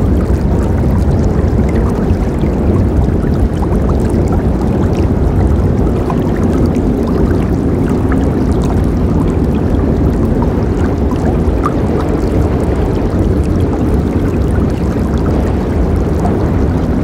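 River water rushing steadily, a dense low rush of flowing water with faint small splashes.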